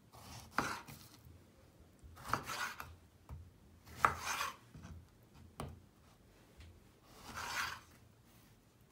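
Food preparation in a kitchen: four rasping scrapes of a utensil working on food, each with a sharp start and spaced irregularly a second or two apart.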